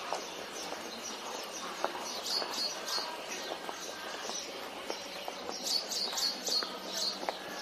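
Birds chirping in quick clusters of short high notes, loudest about two and a half and six seconds in, over a steady outdoor background with scattered light clicks.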